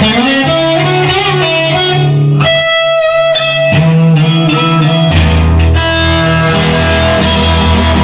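Instrumental music: guitars playing over a bass line, without singing. The bass drops out briefly about two and a half seconds in, then returns.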